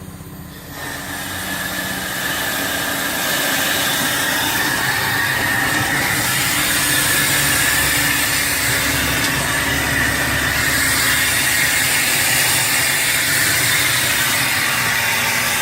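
Steam blower on a wood-fired vertical boiler hissing: a jet of steam is opened about a second in, builds over a couple of seconds to a loud, steady rush, and is held. This is the shot of steam the blower gives to draw the fire.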